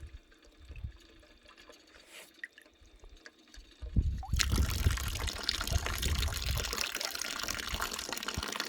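Water starts running from a tap about four seconds in and keeps flowing steadily with a splashing hiss.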